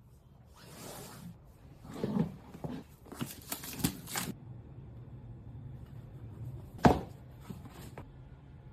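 Packaging being handled: a run of short rustles and crinkles, then one sharp knock about seven seconds in, followed by a few lighter taps.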